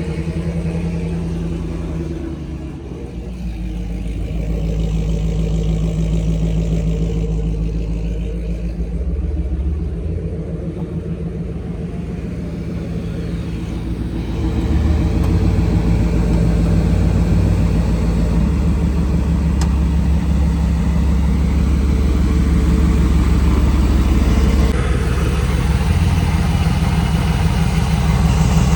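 Truck engine and exhaust running with a loud, steady low drone, growing louder about halfway through as it picks up speed.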